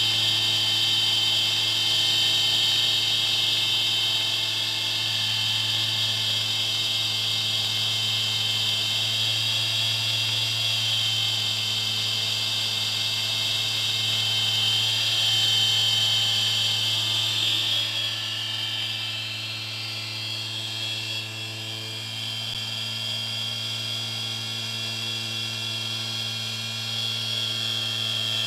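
Electric motor running with a steady high-pitched whine over a low hum, easing slightly quieter after about eighteen seconds.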